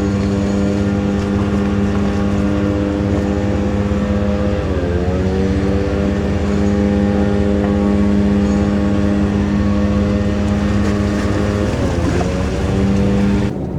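Boat engine running steadily with a deep, even drone. Its pitch dips briefly twice, about a third of the way in and near the end.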